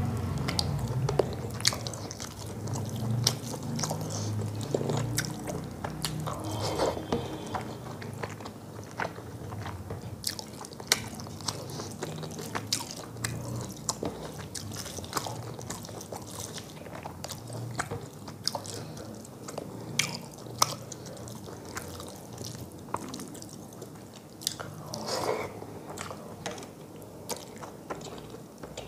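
Close-up mouth sounds of someone eating rice and fish curry by hand: wet chewing with many small sharp clicks and lip smacks throughout.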